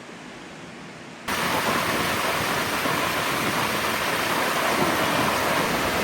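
Creek water rushing in a steady hiss. It is quieter at first, then jumps abruptly much louder about a second in.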